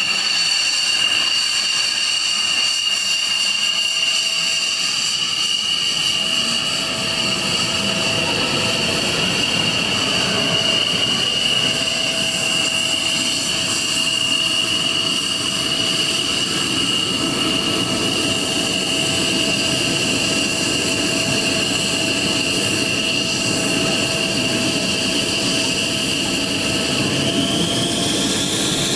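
Jet engine running with a steady high whine over a rushing noise that thickens about six seconds in. The whine rises slightly near the end.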